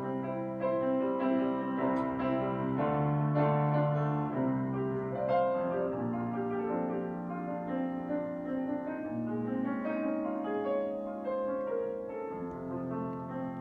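Grand piano playing a solo interlude: chords and melody struck and sustained.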